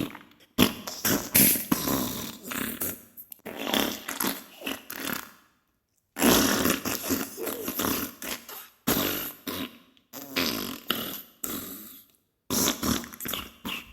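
Diarrhea sound effect: a run of sputtering, crackly fart noises in bursts a few seconds long, with short silent gaps between them.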